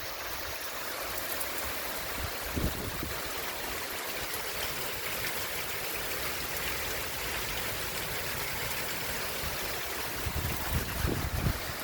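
Steady heavy storm rain, a continuous hiss of falling and running water. A few gusts of wind hit the microphone near the end.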